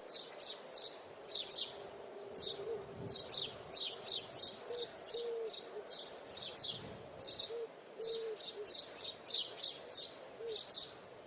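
Birds chirping: many quick, high, short chirps repeated through the whole stretch, with a few faint low calls now and then.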